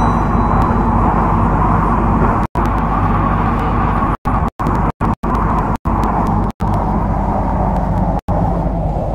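MTR C-Train electric multiple unit running at speed, a loud, steady rush of wheel and motor noise. A brief high beep sounds right at the start, and the sound cuts out for an instant about eight times.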